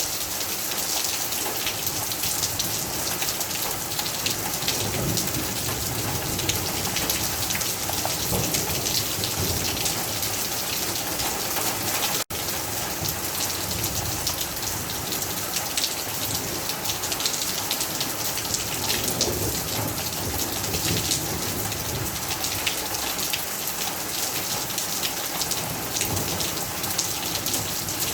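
Heavy rain falling steadily, dense drops pattering on surfaces, with low rumbling swells that come and go. The sound drops out for an instant about twelve seconds in.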